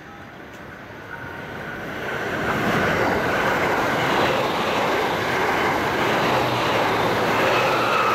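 Limited express electric train (a JR West Shirasagi set) passing close at speed: the rush of wheels on rail builds over the first two seconds, then holds loud and steady as the cars go by.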